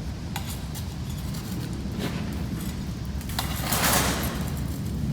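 A few light knocks and a brief rustling scrape a little before the end, typical of a potted cactus and its soil being worked loose and handled, over a steady low hum.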